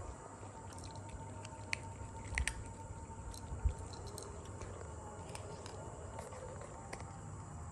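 Kittens eating: small, irregular wet chewing and smacking clicks over a faint steady hum.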